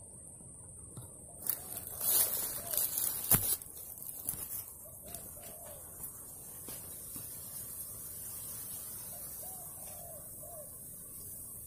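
Spotted dove (tekukur) cooing, its soft arched phrases repeating several times. About two seconds in there is a rustling burst that ends in a single sharp click.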